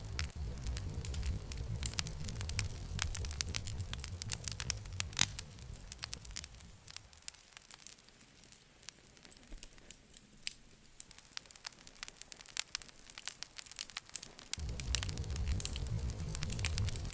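Campfire burning, with frequent sharp crackles and pops over a low rumble. The rumble drops away abruptly about seven seconds in and returns just as suddenly a few seconds before the end, while the crackling goes on throughout.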